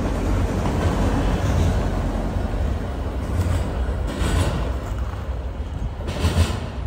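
Freight train rolling past with a steady low rumble that slowly fades, with a couple of brief higher-pitched noises from the train about four and six seconds in.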